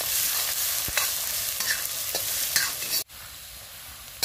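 Onion and ginger-garlic-chilli paste sizzling in hot oil in a metal kadhai while a metal ladle stirs and scrapes the pan. About three seconds in the sound cuts off abruptly and a quieter sizzle follows.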